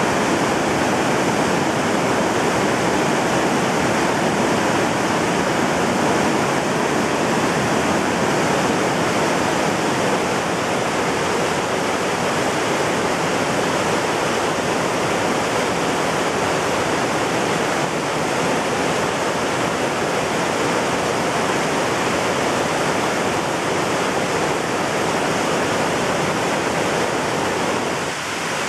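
Mountain stream in spate, swollen by flood water, rushing and tumbling over rocks in a loud, steady roar of water.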